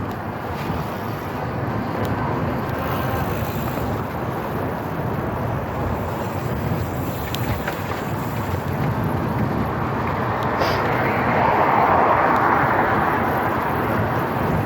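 Steady rushing wind and road noise on a phone microphone carried on a moving e-bike, swelling louder about eleven seconds in.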